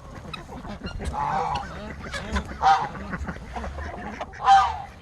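Domestic geese honking: three separate calls, about one, two and a half, and four and a half seconds in.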